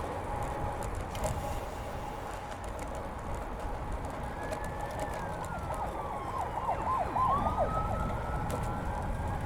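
A siren wails: its pitch falls, warbles quickly, then rises again. It sounds over steady wind and tyre rumble from the bicycle ride.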